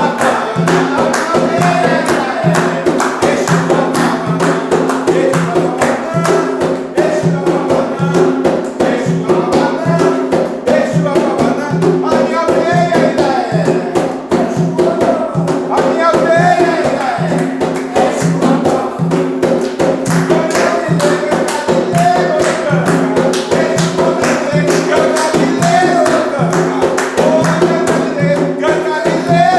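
Umbanda ponto (devotional chant) sung by a group over a fast, steady hand-percussion beat with tambourine-like jingles.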